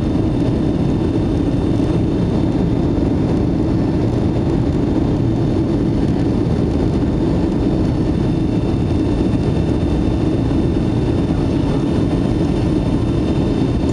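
Steady jet engine and airflow noise inside the cabin of a Boeing 757-200 climbing out after takeoff, a low, even drone with no changes in level.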